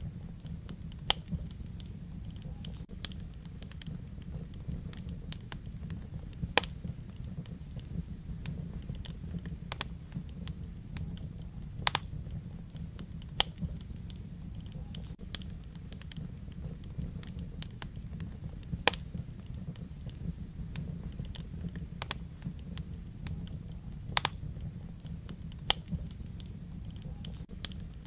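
Wood fire in a fireplace crackling, with sharp irregular pops every second or two over a steady low rumble of the burning fire.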